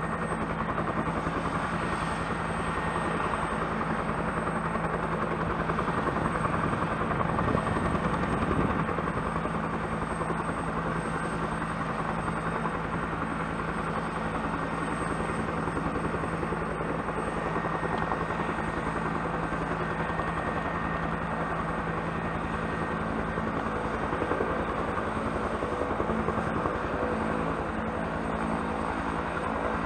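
Bell turbine helicopter running steadily, with a high turbine whine over an even rotor beat; it grows a little louder about seven to nine seconds in.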